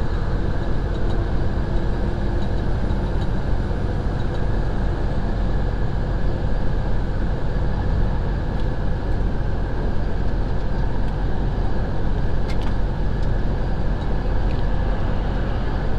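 Semi truck cruising at highway speed: a steady drone of the diesel engine and tyre and road noise.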